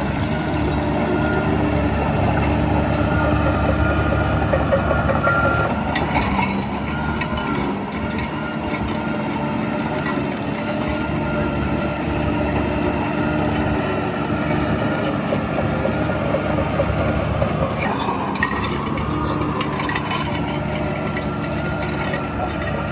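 Heavy diesel engine of earth-moving machinery running steadily under work. The low drone eases about six seconds in, and the engine note rises briefly later on.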